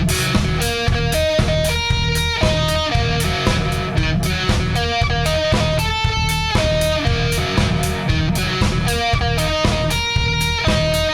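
Rock music with no singing: an electric guitar plays a melodic phrase that repeats about every four seconds over a drum kit.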